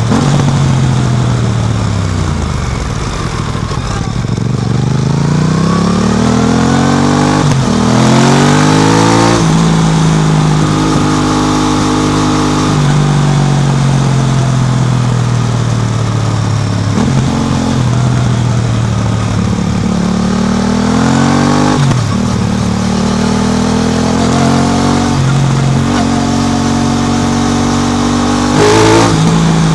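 Aprilia RS660's parallel-twin engine through an SC Project exhaust, ridden on the road. It slows with falling pitch, then accelerates hard with rising pitch through quick upshifts, eases off, pulls again up to another shift, and gives a short rev near the end.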